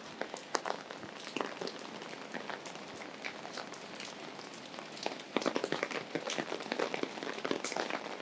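Rain falling on an umbrella overhead: a steady patter with many sharp, irregular drop ticks, which grow denser about five seconds in.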